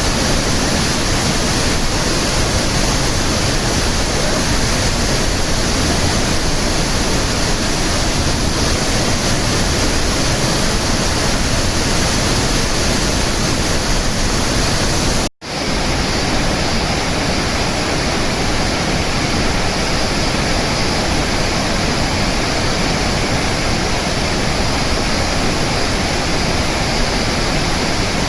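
Fukuroda Falls, a large waterfall swollen with typhoon rain, rushing with a loud, steady, even noise. The sound drops out for a split second about halfway through.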